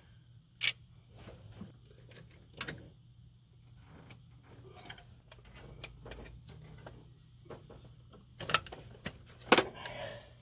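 Scattered metallic clinks and knocks of hand tools and parts being worked on a carburetor during removal. There are sharper clanks about a second in, around three seconds in and twice near the end.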